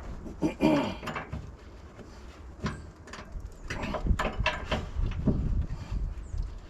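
Irregular metallic clicks and knocks of hand tools and steel fifth-wheel hitch parts being worked.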